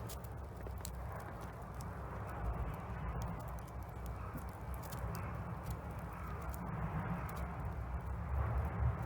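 Wood fire burning in a Solo Stove Bonfire fire pit: irregular sharp crackles and pops over a steady rushing hiss, with a low rumble underneath.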